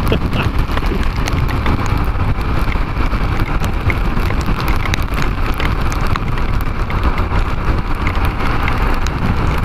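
Heavy rain pelting a motorcycle rider's GoPro at highway speed: a dense, constant ticking of raindrops over a steady rumble of wind and the motorcycle.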